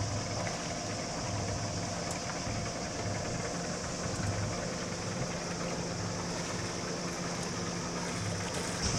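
A boat's engine running steadily with a low pulsing hum, with water noise under it.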